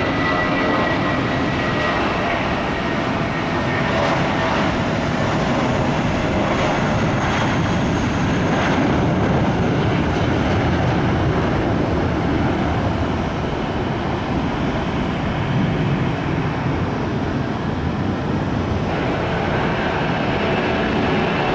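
Aircraft engines running loud and steady, with a thin high whine that dies away within the first couple of seconds.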